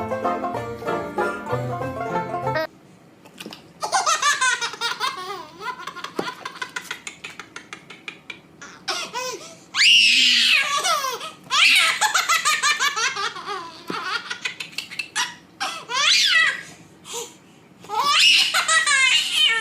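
A young child laughing in repeated fits of high-pitched giggles and belly laughs, after banjo music cuts off about three seconds in.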